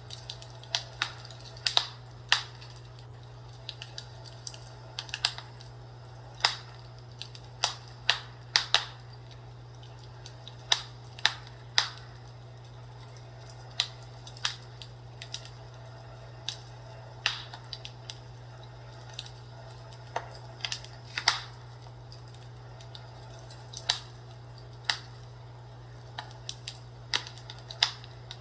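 Fireplace crackling: irregular sharp pops and snaps of burning wood, about one or two a second, over a steady low hum.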